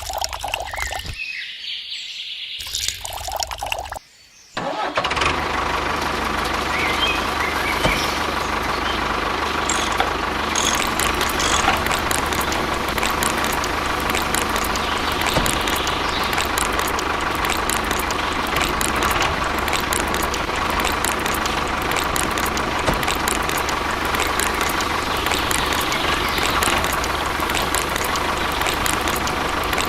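A small motor running steadily, with a constant whine and scattered light ticks. It starts about four and a half seconds in, after a few short, abruptly cut sounds.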